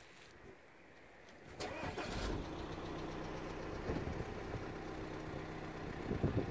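A car engine starts up about a second and a half in, then runs steadily.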